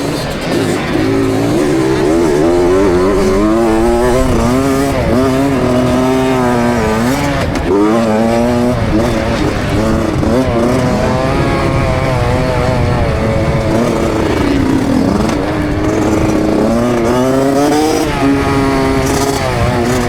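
Motocross bike engine riding the track, revving up and down repeatedly as the rider accelerates, shifts and backs off, with one deeper drop in revs about three quarters of the way through.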